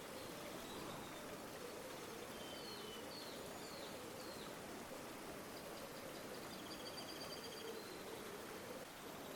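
River water flowing in a steady, faint wash. Small birds call faintly over it: four short chirps about a third of the way in and a brief high trill near the end.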